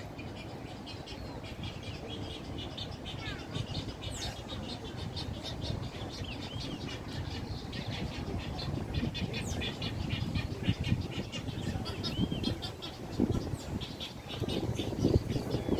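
Many birds chirping and calling at a park lake, in many short high chirps throughout. A steady low rumble runs beneath, and there are a few louder low calls near the end.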